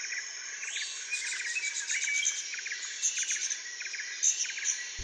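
Nature ambience of birds chirping in short, rapid clusters over a steady high insect hiss.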